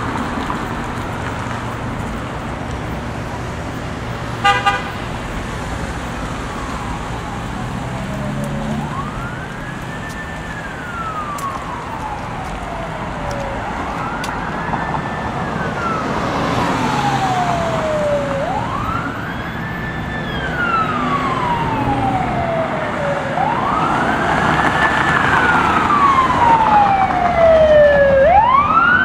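Emergency vehicle siren wailing, each cycle a quick rise and a slower fall about every five seconds, growing louder as it approaches over steady traffic noise. A short, loud horn-like blast sounds about four seconds in, before the siren starts.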